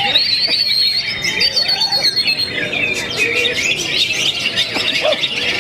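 Cucak ijo (green leafbird) singing a fast, unbroken run of whistled, chattering notes that glide up and down, with other bird song overlapping it.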